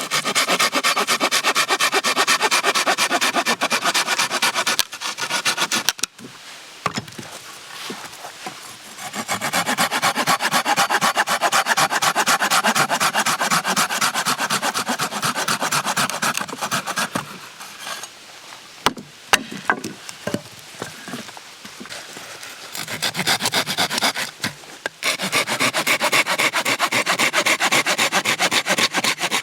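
Hand saw cutting through wood in three long bouts of quick back-and-forth strokes, with short pauses and a few clicks between bouts.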